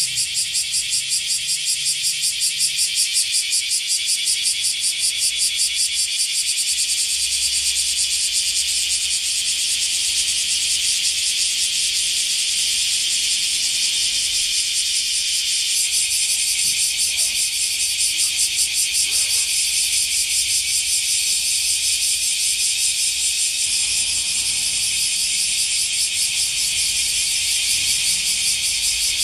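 Male bear cicada (kumazemi, Cryptotympana facialis) singing: a loud, high, rapidly pulsing buzz that keeps up without a break, swelling and fading a few times a second.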